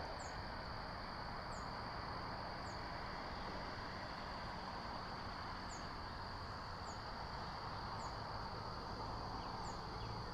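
Outdoor ambience: a steady rushing hiss with a steady high insect-like trill. Over it, a small bird gives thin, high, falling chirps, about eight of them at irregular intervals of a second or so.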